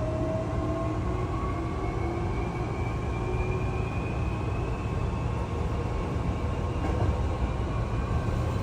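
Hankyu commuter train running, heard from inside the car: a steady rumble of wheels on rails, with the electric motors' whine slowly rising in pitch as the train gathers speed, fading out about halfway through.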